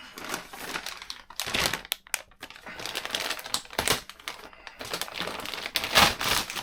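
Thin plastic crinkling and rustling as it is handled, with irregular light clicks and knocks; the loudest rustle comes about six seconds in.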